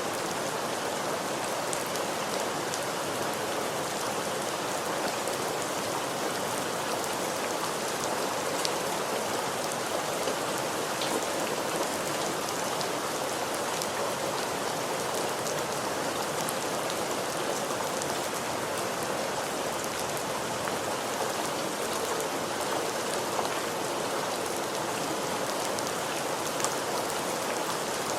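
Steady rain falling, an even hiss of many drops hitting a surface, with a few sharper individual drop ticks scattered through it.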